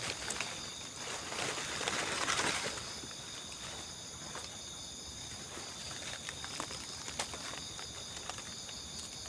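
Night-time insect chorus of crickets, a steady high-pitched trilling. About two seconds in, a rush of rustling noise swells up and fades, and a few sharp clicks or snaps come later.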